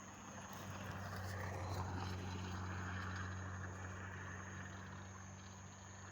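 Low, steady hum of a distant engine that grows louder over the first two seconds and then slowly fades, with a faint, steady high-pitched whine throughout.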